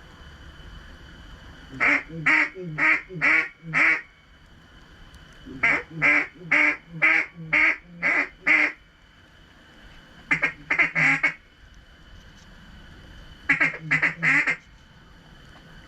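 Mallard quacks in four quick series of about four to eight loud, evenly spaced notes each.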